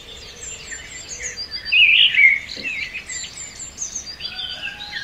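Birds chirping, many short, quick calls overlapping over a faint steady background, loudest about two seconds in.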